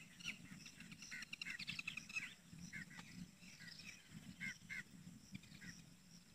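Birds calling faintly and repeatedly in short high "kik-kik-kik" bursts, a few calls a second, over a low steady background noise.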